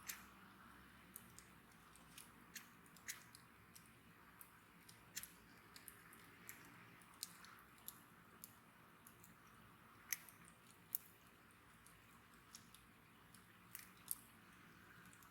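Wood fire crackling: irregular sharp pops and snaps over a faint hiss, with two louder snaps about ten and eleven seconds in.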